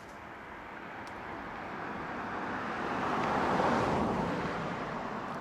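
A car driving past, its road noise swelling and then fading, loudest a little past the middle.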